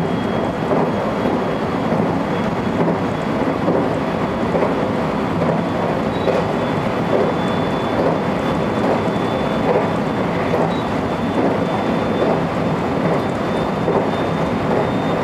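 Electric train running along the line, heard from inside the front cab: a steady rumble of wheels on rail, with a faint steady high whine over it.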